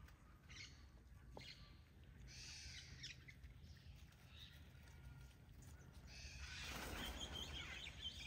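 Faint outdoor ambience with birds calling in scattered high chirps, growing louder near the end with a run of quick chirps.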